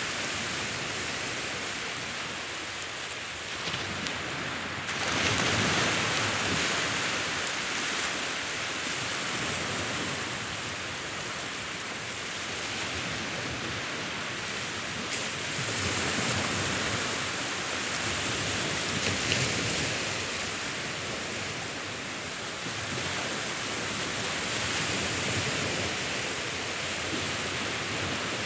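Sea waves: a steady rush of surf that swells louder as waves break, several times over.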